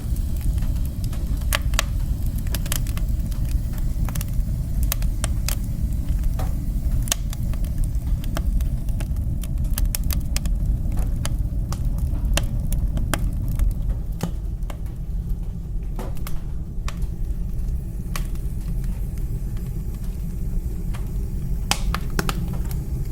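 Wood fire crackling in a fireplace: sharp, irregular pops and snaps over a steady low rumble of the burning fire.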